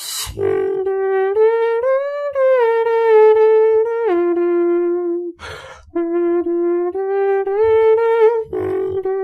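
Vocal beatboxing: a held, hummed melody that glides between notes, with low kick-drum thuds from the mouth and two short hissing bursts, about five and a half and eight and a half seconds in, that cut across the melody.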